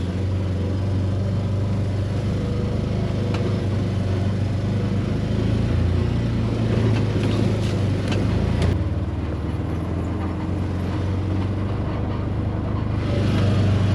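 A vehicle engine running steadily at low speed, with a few faint knocks near the middle.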